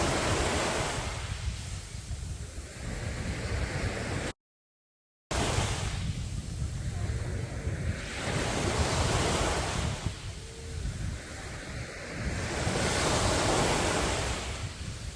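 Sea waves breaking and washing up on a beach. The sound swells and ebbs every few seconds, with some wind on the microphone. It drops out entirely for about a second a little before the middle.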